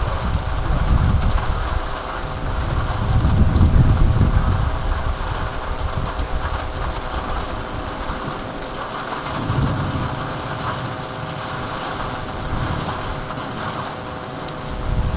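Heavy rain falling steadily in a thunderstorm, with low rumbles swelling and fading about three and ten seconds in.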